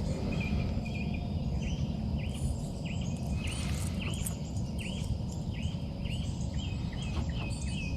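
A bird calling over and over: short down-slurred chirps, about two a second, over a steady low outdoor rumble.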